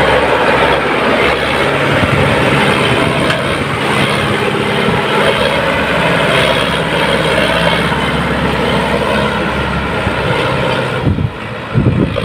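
Sonalika 745 DI tractor's diesel engine running steadily under load while pulling a fully loaded trolley. Near the end the sound dips briefly and a few low thumps follow.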